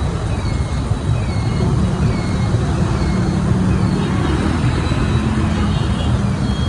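Motor scooter running through city traffic, with a low engine hum that comes up about two seconds in and eases off near the end, over a steady rumble of road and wind noise.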